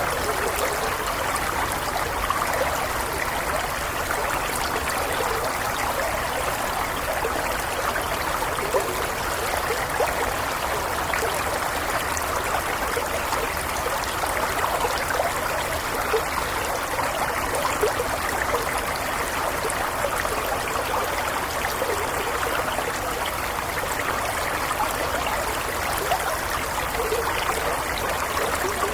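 Stream water flowing gently over stones, a steady babbling trickle with small splashes throughout.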